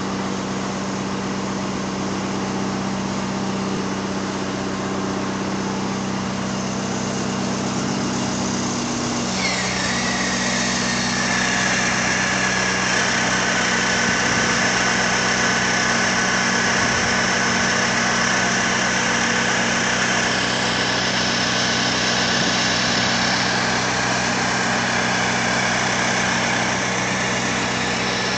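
Truck engine idling with a steady hum. About a third of the way in, the engine note dips slightly and a high whine with a hiss above it sets in, falling a little in pitch and then holding steady: the truck-mounted crane's hydraulics working, putting the engine under load.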